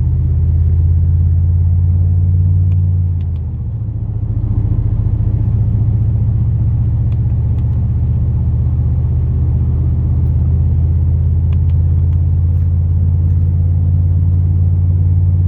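Plow truck, a 2002 Chevrolet Silverado with an 8.1 L big-block gas V8, running under way, heard from inside the cab as a loud, steady low rumble that eases off briefly about three seconds in and then comes back.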